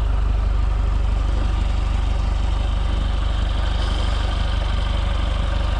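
80 hp International tractor engine running steadily at idle, a low, even rumble.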